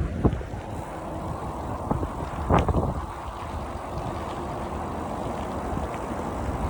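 Wind rumbling on the microphone of a moving bicycle, broken by a few sharp knocks, the loudest about two and a half seconds in.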